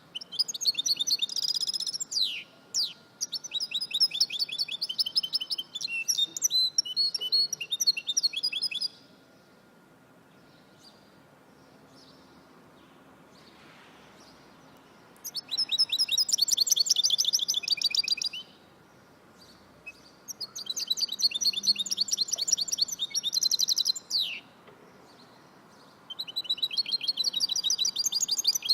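A songbird singing bouts of rapid, high trills several seconds long, with a pause of about six seconds near the middle.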